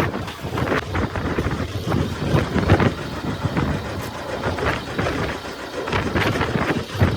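Gusty wind buffeting the microphone on a boat at sea, an uneven rushing noise.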